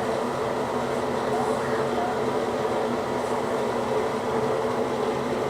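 Steady mechanical hum with a few fixed tones in it, even in level.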